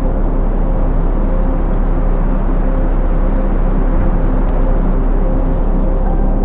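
A steady, dense low rumble with a sustained pure tone near 528 Hz held over it.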